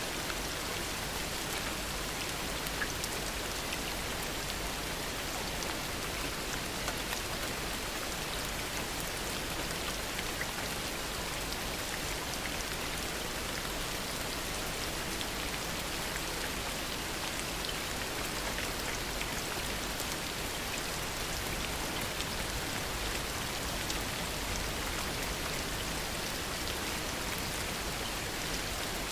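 Steady heavy rain falling, an even hiss with many small drop patters throughout.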